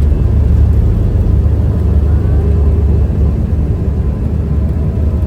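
Steady low rumble of airflow and engine noise inside the cabin of an Airbus A320-214 with CFM56 turbofans.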